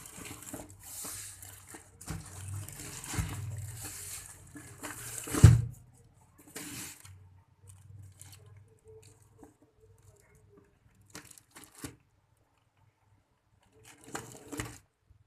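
Shoe packaging being handled and opened: rustling and tearing, with a sharp knock about five and a half seconds in, then scattered handling clicks and a short rustle near the end.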